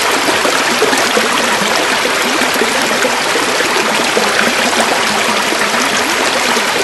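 River water flowing and babbling, a steady rushing with a fine splashing texture.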